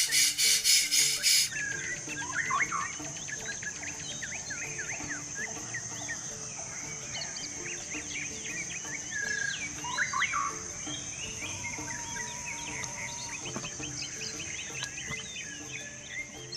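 Many birds chirping and whistling at once in short sweeping calls, over a steady high-pitched insect drone. A loud, rapid pulsing buzz fills the first second and a half.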